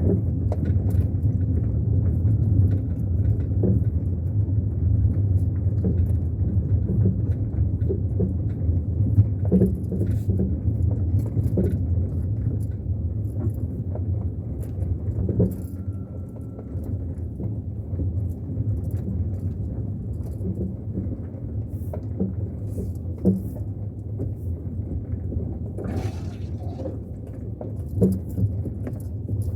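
Car driving, with a steady low rumble from the engine and road and scattered knocks and rattles all the way through.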